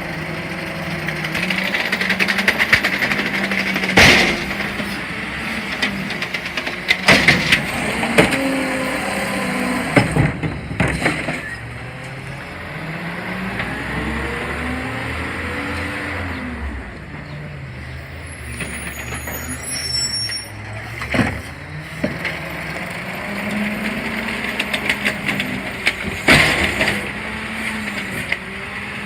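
CNG Autocar Xpeditor garbage truck working its route. Its engine rises and falls in pitch several times as it revs, and sharp bangs and clanks come every few seconds.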